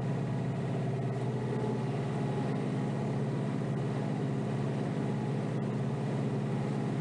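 Kioti DK5320SE subcompact tractor's diesel engine running steadily, heard from inside the enclosed cab.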